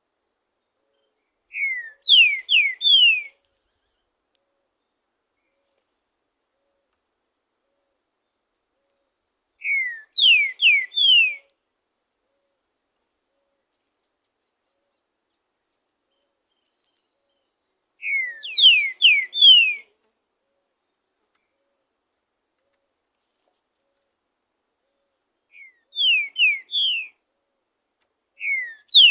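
Green-winged saltator (trinca-ferro) singing: five short, loud phrases of three or four falling whistled notes, with silence between them.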